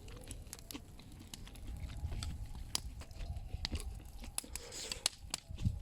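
Someone chewing grilled meat close to the microphone, with irregular sharp crunchy clicks, over a low rumble of wind on the microphone.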